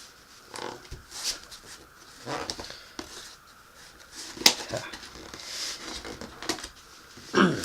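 Handling noise from a stapled cardboard box being worked open with a knife and hands: irregular scrapes and rustles with sharp clicks, the loudest about halfway through.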